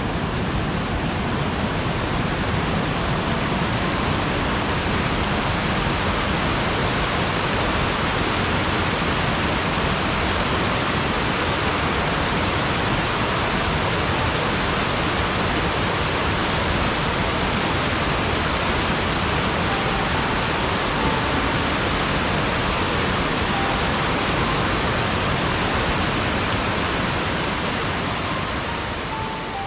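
Steady rush of a waterfall: water pouring and splashing without a break, fading out near the end.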